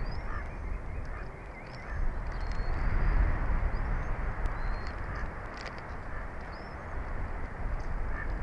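Wind buffeting an outdoor nest-cam microphone, a steady rushing that gusts loudest around two to four seconds in, with faint, brief high bird chirps now and then above it.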